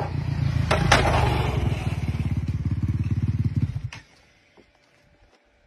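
Dirt bike engine running with a rapid, even firing pulse, with a couple of sharp clicks about a second in. The engine cuts off suddenly about four seconds in.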